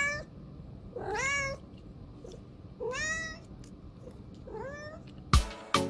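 A domestic cat meowing repeatedly, about once every second and a half, each call rising then falling in pitch. Near the end, sharp drum hits of background music come in.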